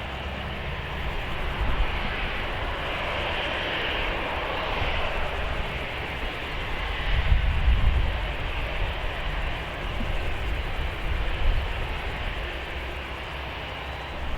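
Jet airliner engines on the runway: a steady rushing jet noise that swells a couple of seconds in and then eases, over a low uneven rumble.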